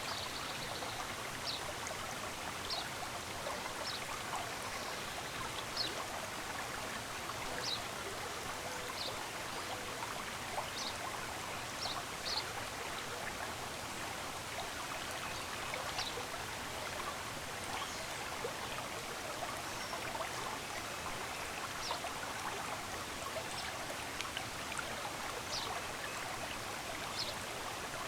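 Running water of a stream, a steady rushing and trickling, with short high bird chirps repeating about every second or two over it.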